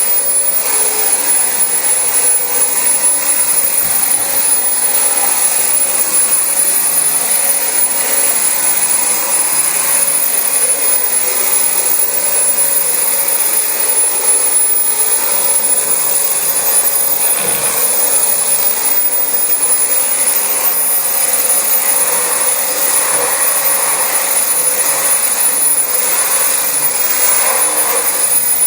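Dyson DC25 bagless upright vacuum cleaner running steadily over carpet: an even motor rush with a thin, high-pitched whine on top.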